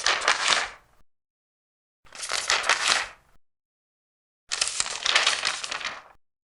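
Large paper pages being turned, three times: each turn is a rustling sweep lasting about a second to a second and a half, with silence between turns.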